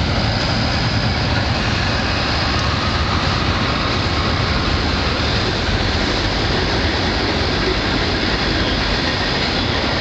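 Steady loud rumble and roar of a passing train, with no change throughout.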